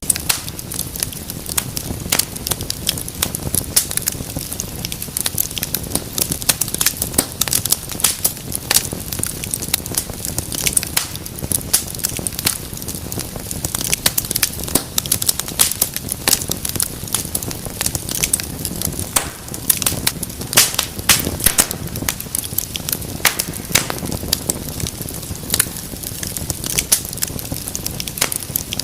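Wood fire crackling in a fireplace: frequent sharp pops and snaps over a soft, steady low rumble of flames.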